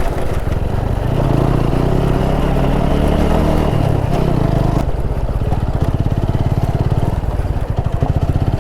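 Motorcycle engine running while being ridden, with its pitch shifting for a few seconds and a single knock about five seconds in.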